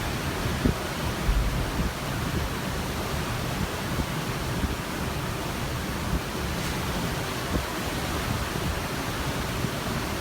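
Ocean water washing in a steady rush heard from a cruise ship, with irregular low thuds of wind buffeting the microphone.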